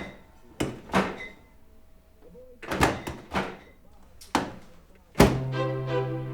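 A handful of separate knocks and thuds, door-like, spaced out over the first four and a half seconds. Then a loud hit about five seconds in, as music with a held chord starts.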